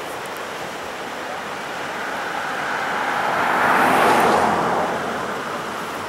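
Museum train led by the DD40X UP 6936 passing, its locomotives and cars on the rails making a rushing noise that swells to a peak about four seconds in and then fades.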